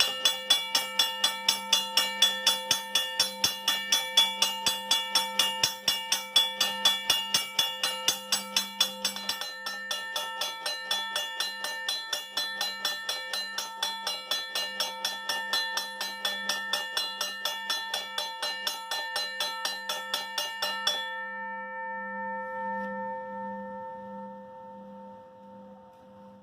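Safetran mechanical railroad crossing bell ringing: the hammer strikes the gong in a fast, even series, about three strokes a second. The striking stops about 21 seconds in and the gong rings on, fading away.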